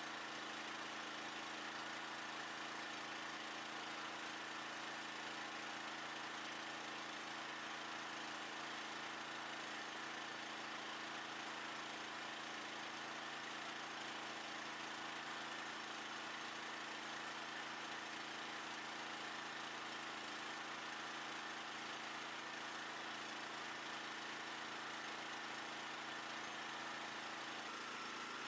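An engine running steadily at one constant speed, with a steady hiss over it and no change in pitch or level.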